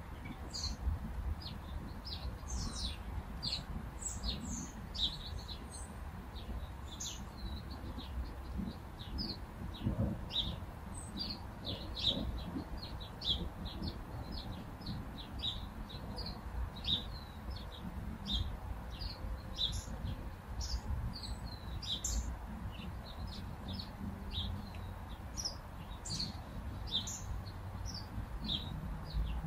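Small birds chirping: many short, high chirps in quick, irregular succession, over a low steady rumble.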